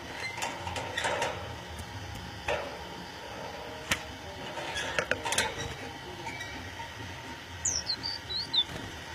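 Budgerigars calling: scattered sharp chirps and clicks, then a quick run of high, downward-sliding chirps near the end, over a steady low hum.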